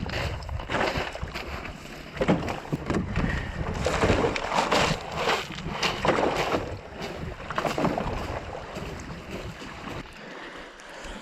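Wind buffeting the microphone, with uneven splashing and knocking around a canoe at the water. The wind rumble drops away about ten seconds in.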